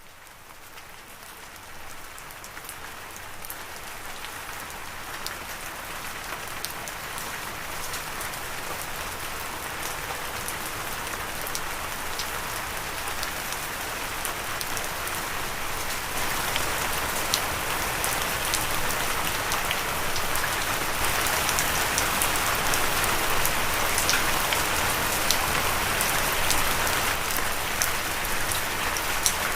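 Steady rain falling, with individual raindrops ticking through the patter. It fades in from quiet, grows gradually louder through the first half, steps up about halfway and then holds steady.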